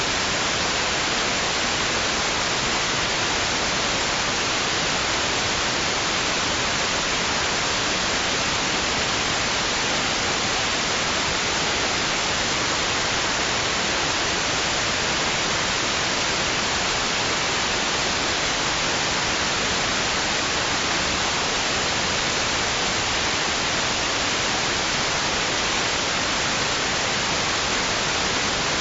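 Steady white noise: an even, unchanging hiss, brighter in the treble, with no swell or break.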